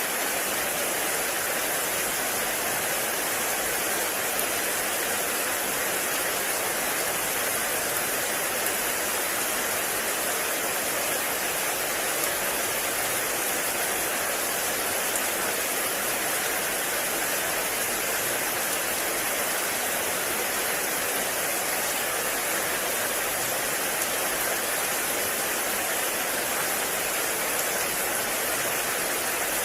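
Heavy rain falling steadily on forest foliage, a dense even hiss with no thunder or other events.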